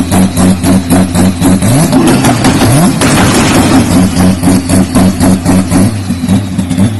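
Turbocharged car engine idling with its anti-lag system banging in an even rhythm, about three to four pops a second. It is blipped up in pitch twice about two seconds in, then settles back into the popping.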